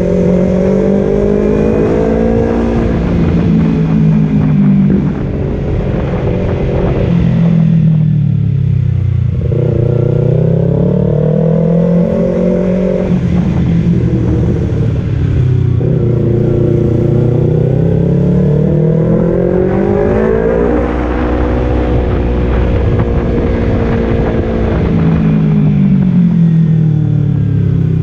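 Kawasaki Z250 motorcycle engine running through an aftermarket Leovince Cobra exhaust. Its pitch rises and falls several times as the throttle is opened and eased off.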